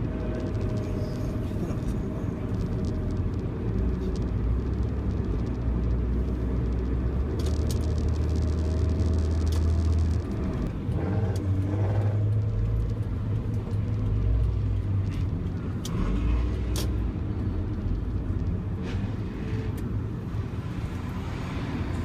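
Loud aftermarket exhaust of an old Toyota car running at low revs: a deep, steady rumble whose pitch shifts as the throttle changes about halfway through.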